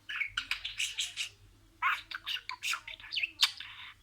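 Budgerigar warbling and chirping in quick, scratchy runs, in two bouts with a short pause between them.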